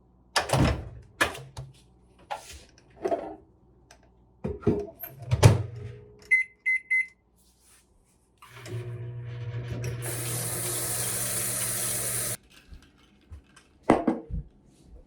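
Household handling noises: scattered knocks and clicks, then three quick electronic beeps, then a steady appliance hum joined by a rushing hiss for about two seconds, both cutting off suddenly, with a couple more knocks near the end.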